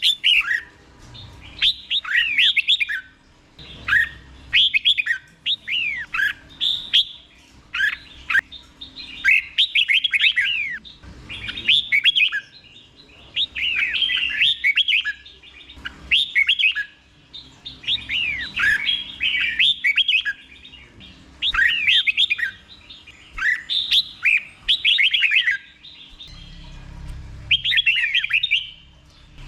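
Red-whiskered bulbul singing short phrases of quick sweeping notes, a new phrase every second or two. This is the doubled ("เบิ้ล") song style, sung slowly and clearly.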